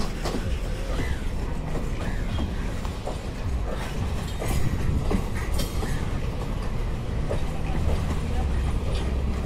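Container flat wagons of a freight train rolling past, their wheels rumbling steadily over the track with repeated clicks as they cross the rail joints.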